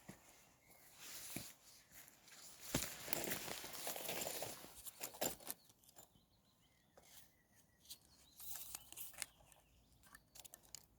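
Footsteps and rustling on the ground, crunching and crackling, with a louder stretch of rustling about three to five seconds in.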